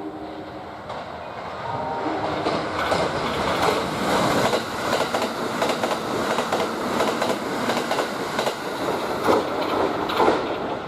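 Kintetsu limited express electric train running past the platform, its wheels clattering rhythmically over the rail joints. The sound builds about two seconds in and stays loud, with the last notes of a station melody fading at the start.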